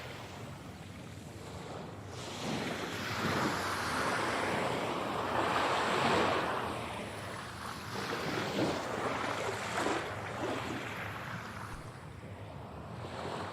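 Ocean waves breaking and washing in, swelling and fading in slow surges every few seconds, processed as 8D audio that moves around the listener.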